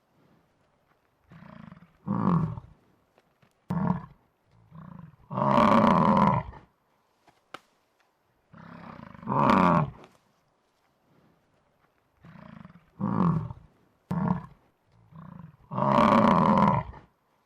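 Buffalo bellowing: a run of low calls, shorter ones leading into a longer, louder bellow of about a second and a half, with the same sequence coming round again, as from a repeated sound-effect track.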